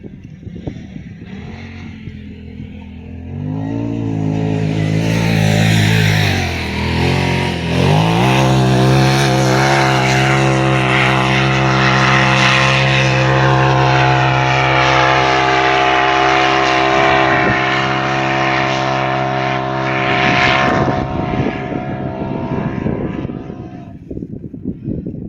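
Off-road vehicle engine revving up about three seconds in, dropping briefly, then holding steady at high revs for about fifteen seconds before fading away near the end.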